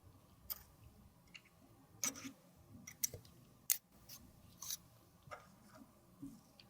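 Irregular sharp clicks, taps and short scrapes from small tools and containers handling makeup, about a dozen in a few seconds.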